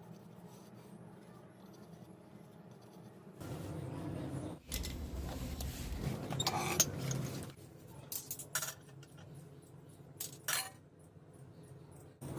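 Handling noise for a few seconds, then several short, sharp clinks and jingles of small hard pieces being moved and set down.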